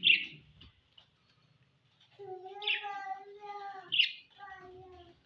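Pet budgerigars squawking: two sharp, high chirps, one at the start and another about four seconds in. Between them come two drawn-out pitched calls, the first lasting over a second and a half.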